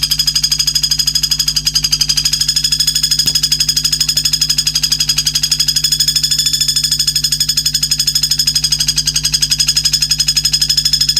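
A songbird's trill in a bird-song recording: a rapid, even pulsing of high, ringing notes that runs unbroken, over a steady low hum.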